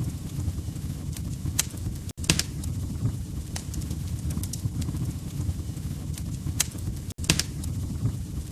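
Wood fire burning in a fireplace: a steady low rumble of flames with sharp crackles and pops scattered throughout. The sound cuts out for an instant twice, about two and seven seconds in.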